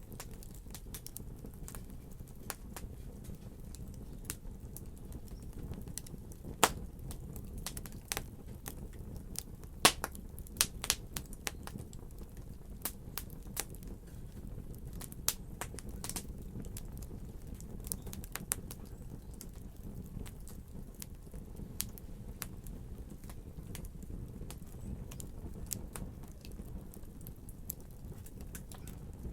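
Wood fire crackling: sharp, irregular pops and snaps over a steady low rumble of burning, with the loudest pops about seven and ten seconds in.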